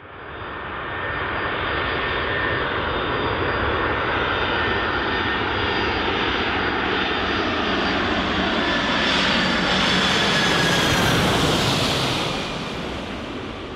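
Jet airliner's engines passing close by: a dense rushing noise with high steady whining tones. It grows louder over the first two seconds, is loudest near the end, then starts to ease off.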